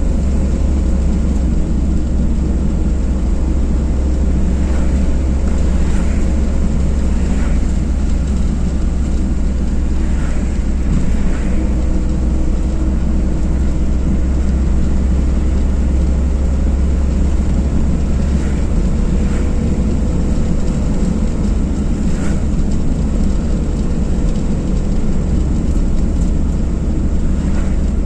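A car driving at steady speed: continuous deep road and engine rumble, with a few faint brief higher sounds over it.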